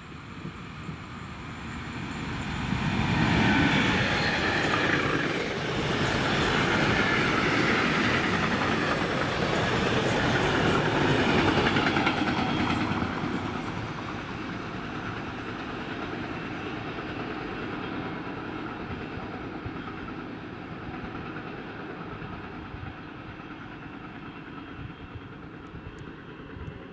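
German Railways Class 185 electric locomotive and its short freight train passing by. The sound builds about three seconds in, stays loud with the wagons' wheels running over the rails for about ten seconds, then drops off and slowly fades as the train moves away.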